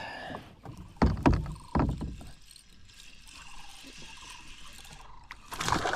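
A few dull knocks against a kayak about a second in, then faint water and handling noise, as a hooked bass is brought alongside.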